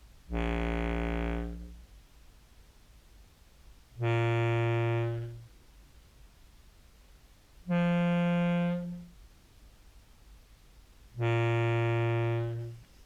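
Contrabass clarinet notes played through an OBNE Float envelope filter into a Behringer Brassmaster fuzz: four held, buzzy fuzz tones of about a second and a half each, on different pitches, with short gaps. No key clicking comes through because the filter does not open fast enough to let the clicks register, so the fuzzed notes sound smooth.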